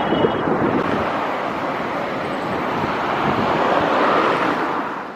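Steady rushing noise of wind on the microphone and surf, fading out at the very end.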